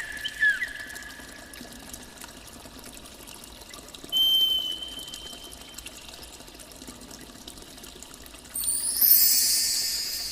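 Water pouring, with a loud hiss near the end. Before it come a high steady tone that fades out in the first two seconds and a brief higher tone about four seconds in.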